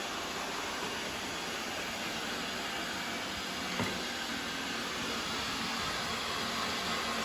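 ECOVACS Deebot N79S robot vacuum running steadily, with a short knock about four seconds in.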